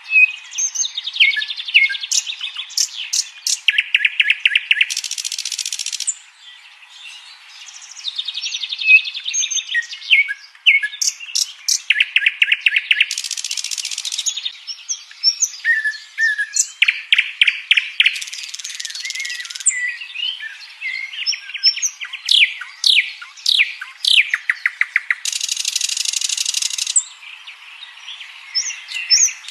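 Nightingale singing a long, varied song: phrases of sharp whistles, fast runs of repeated notes and loud rattling trills, each followed by a short pause.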